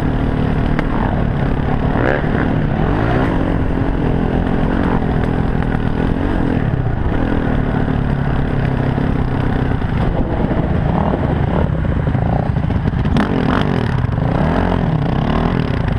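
Dirt bike engine revving up and down through the gears while riding a trail, picked up close by the onboard camera, with rattling and clatter from the bike over rough ground.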